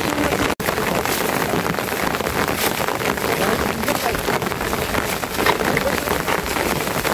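Steady rain falling, a dense even hiss at a fairly loud level; the sound cuts out for an instant about half a second in.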